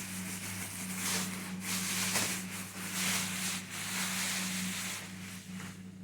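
Rustling and rubbing handling noises, in irregular surges, as a new wet and dry vacuum cleaner is unpacked and turned over by hand. A steady low hum runs underneath.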